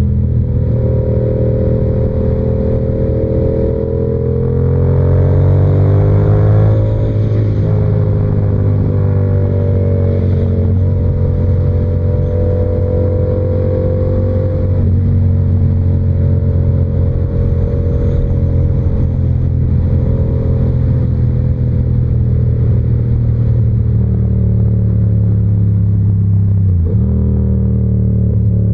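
Yamaha R7's parallel-twin engine running steadily while riding. The revs climb about four to seven seconds in, fall back and hold steady, then dip briefly and recover near the end.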